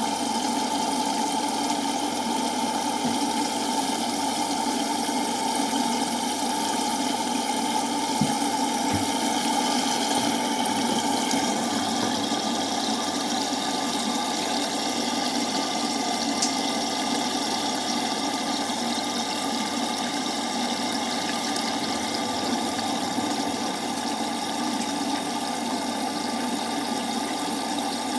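LG washing machine running with water moving through it: a steady hum with a pump-like drone that holds even throughout.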